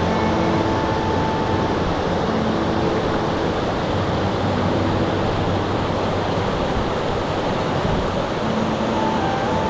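Steady rushing roar of a waterfall, with soft relaxing music of slow, long-held notes laid over it.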